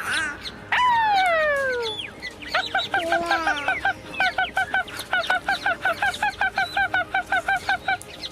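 Eagle calls: a long falling scream, then a fast chittering run of short piping notes, about five or six a second, for the rest of the time.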